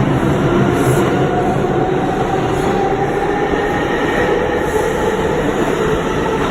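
An R142 subway train running through the station: a loud, steady rumble of wheels on rail, with the faint steady whine of its electric traction motors above it.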